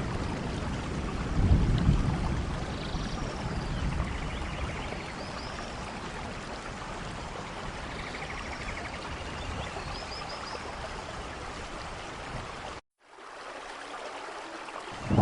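Steady rain with a low rumble of thunder swelling about a second and a half in. Near the end the sound cuts out abruptly for a moment, then the rain returns.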